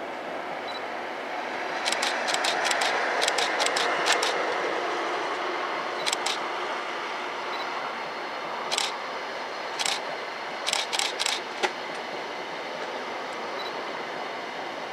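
Passenger train running past on the railway: a steady noise of wheels on rail that is loudest a couple of seconds in and then eases, with several groups of sharp clicks from the wheels.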